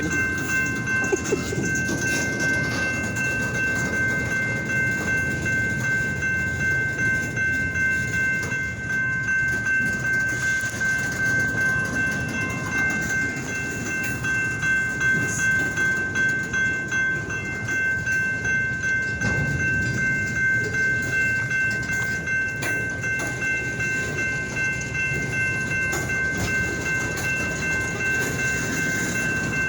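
Freight train cars rolling past with a continuous uneven rumble and clatter of wheels on rail. Steady high-pitched tones ring over it throughout.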